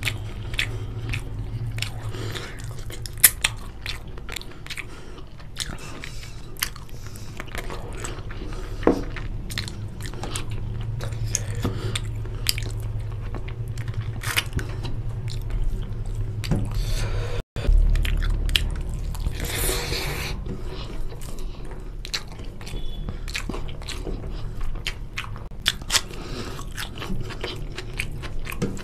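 Close-miked chewing of chicken curry and rice eaten by hand: wet smacking and clicking mouth sounds, with some crunchy bites.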